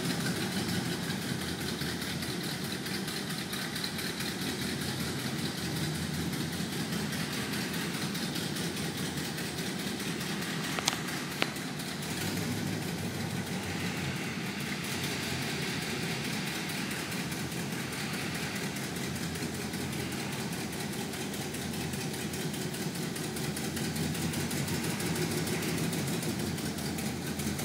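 1969 Pontiac GTO's 400 V8 running steadily at low speed as the car rolls slowly past, its rumble echoing in an underground parking garage. Two sharp clicks come about eleven seconds in.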